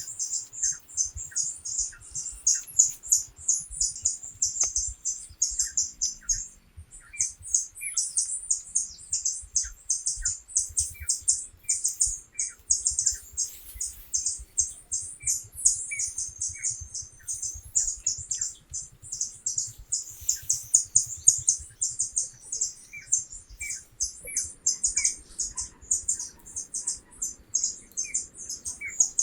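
Forest birds chirping: a fast, steady run of high chirps that pauses briefly about seven seconds in, with shorter, lower calls every half second to a second over it. A faint low thudding runs underneath.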